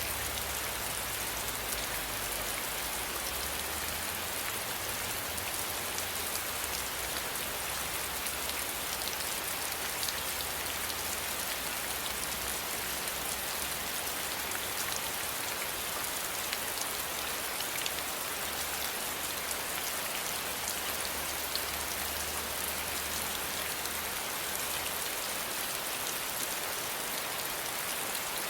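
Steady rain: an even, continuous hiss with the fine crackle of individual drops striking a surface.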